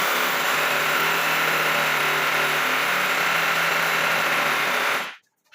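Electric power drill running steadily at full speed for about five seconds, then stopping abruptly.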